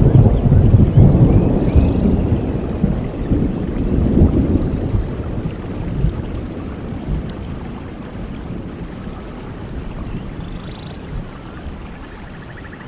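Thunder rumbling over steady rain: the rumble is loudest at the start, swells again about four seconds in, then dies away, leaving an even rain hiss.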